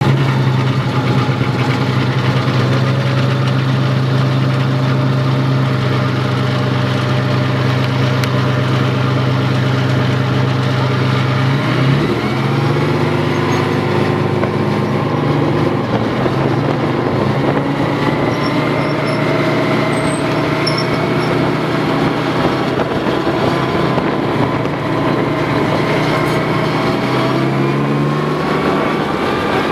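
A tank's engine running loudly and steadily as it carries the ride. The pitch shifts up about twelve seconds in and drops back down near the end as the revs change.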